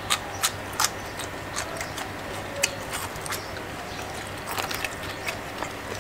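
Close-up chewing of crisp fried salmon and raw vegetables: irregular sharp crunches, with a quick cluster of them near the end.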